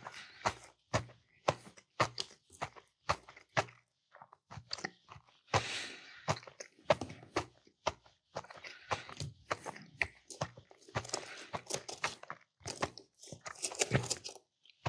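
Close-up chewing of a mouthful of food: repeated wet mouth smacks and soft crunches, roughly one or two a second, with quieter stretches of mashing in between.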